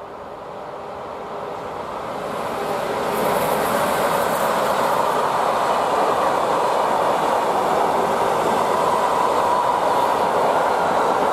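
A train approaching, growing steadily louder over the first three seconds, then running past at a steady level with an even rushing of wheels on rails.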